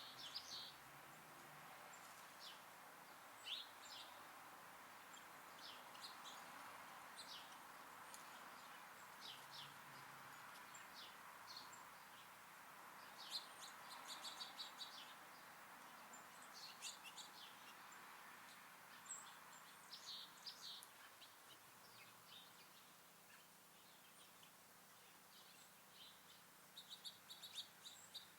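Small songbirds at a backyard feeder, faintly chirping: short high chirps scattered throughout, with a few quick chattering runs, over a steady faint background hiss.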